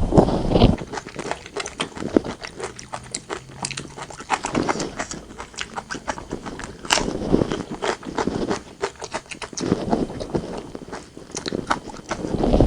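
Close-up eating sounds of a person chewing braised pork belly and white rice: many sharp, wet mouth clicks, with louder bouts of chewing at intervals.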